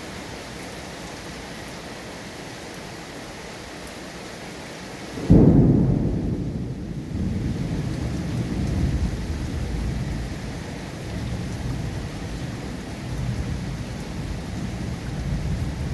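Steady rain falling, then about five seconds in a sudden loud clap of thunder that fades into a long low rumble lasting the rest of the time, under the continuing rain.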